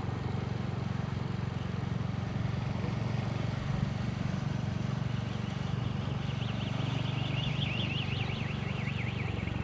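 Royal Enfield motorcycle engine running steadily at low cruising speed, heard from the saddle. From about five seconds in, a high warbling alarm tone rises and falls about three times a second.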